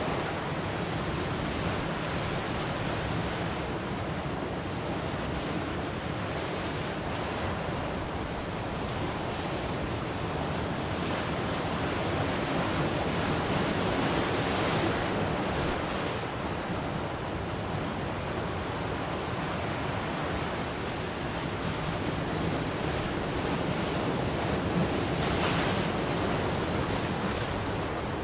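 Ocean waves breaking and washing on a shore, a steady rush of surf that swells and eases gently, with some wind on the microphone.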